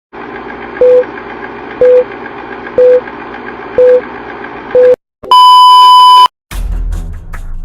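Countdown-style beep sound effect: five short, loud beeps about a second apart over a hissy rumbling bed. They are followed by a longer, higher beep, and music starts near the end.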